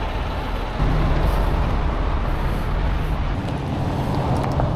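Heavy diesel truck engine running steadily with a low rumble, getting louder about a second in, over a wash of freeway traffic noise.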